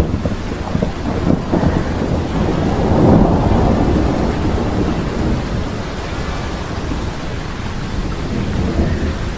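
Storm sound effect: steady heavy rain with a continuous low thunder rumble that swells about three seconds in.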